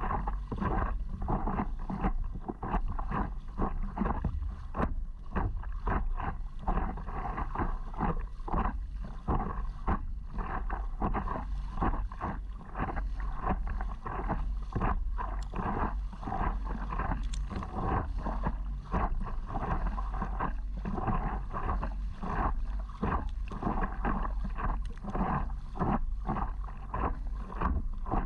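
Water splashing and slapping against a paddleboard in a dense, irregular run, over a steady low rumble of wind on the microphone.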